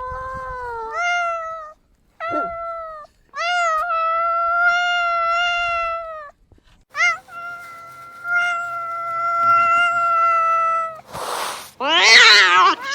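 Domestic cat meowing again and again: a series of drawn-out, wavering meows, the longest held for two to three seconds. Near the end a brief noisy rush is followed by a harsher, yowling cry.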